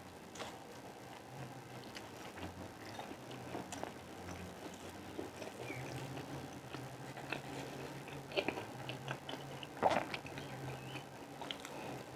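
Close-miked chewing and mouth sounds of a person eating: scattered small wet clicks and smacks, with a louder smack about ten seconds in, over a low steady hum.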